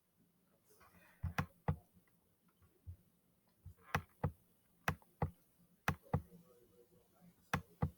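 Scattered light clicks and taps, about a dozen at an uneven pace, with quiet between them.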